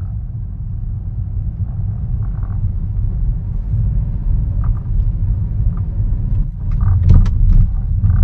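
Low rumble of a Hyundai Aura driving, heard inside the cabin, with a few short faint knocks near the end.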